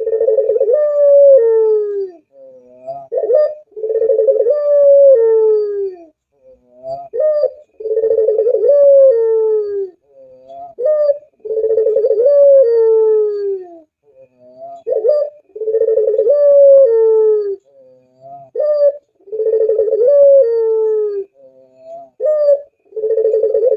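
Puter pelung dove (domestic Barbary dove) cooing over and over. Each call is a short note followed by a long coo that falls away at the end, and a new call comes about every four seconds.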